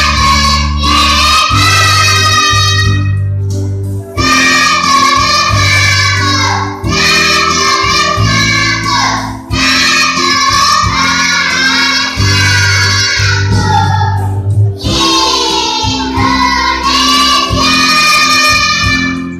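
Kindergarten children's choir singing together in phrases with short breaths between them, over an accompaniment of sustained low notes.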